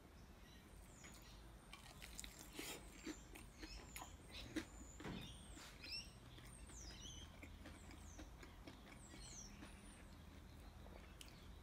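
Quiet close-up chewing of a crumbed chicken parma, with soft mouth clicks and crunches. About halfway through, several faint high bird chirps come in.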